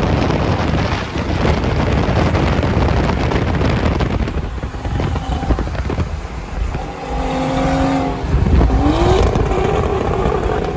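Wind rushing over the microphone with vehicle noise underneath, then a car engine note that holds steady for about a second and rises in pitch near the end.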